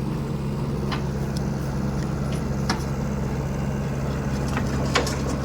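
SANY SY75C Pro excavator's diesel engine running steadily, with a few sharp metallic clanks at about one second, near three seconds and near the end.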